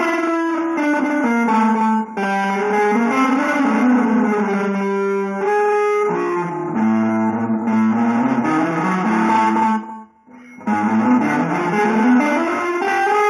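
Instrumental guitar music: sustained notes and chords with slow pitch glides, broken by a brief gap about ten seconds in.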